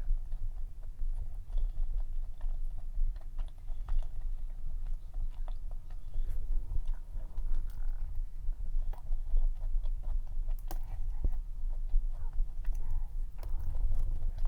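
Close-miked chewing of a dense, fudgy cream cheese cup cookie, with many small irregular mouth clicks over a steady low hum.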